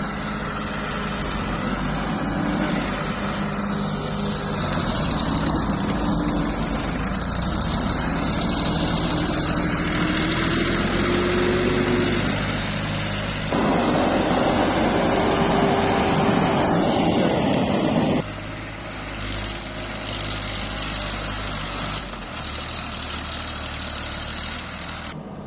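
Tractor engine running under changing load: its pitch rises about a third of the way in, it gets louder and harsher for about four seconds from midway, then drops back to a quieter steady run.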